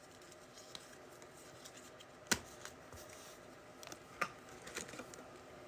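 Trading cards being handled: a few light, sharp clicks and taps, the loudest two about two seconds apart near the middle.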